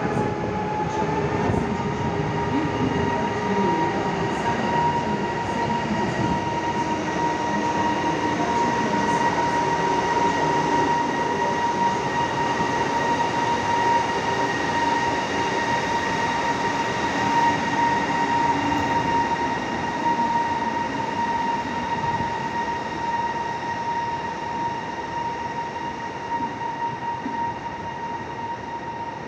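Passenger train hauled by an EP2K electric locomotive rolling past: a steady rumble of wheels and carriages over a high steady whine that rises slightly in the first second and then holds. The sound fades a little near the end.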